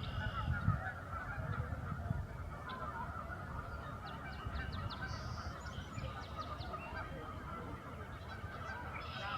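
A large flock of migrating geese calling together: a dense, continuous chorus of overlapping honks. A quick run of faint clicks comes about four to five seconds in.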